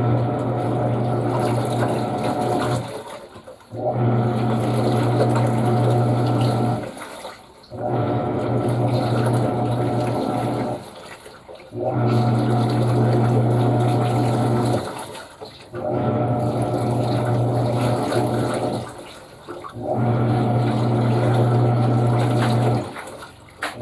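Panasonic washing machine washing: its motor hums and water churns for about three seconds at a time, then stops for about a second before starting again, a repeating wash-agitation rhythm.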